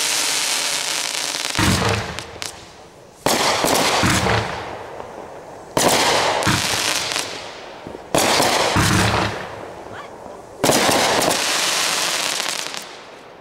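Large fireworks bursting one after another: five sharp bangs about two to three seconds apart, each trailing off over a second or two.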